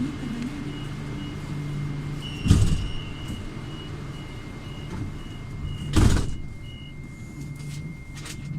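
Metro train carriage sliding doors at a stop, with a repeating electronic door-warning beep and two heavy thuds of the doors about three and a half seconds apart, over the low hum of the train.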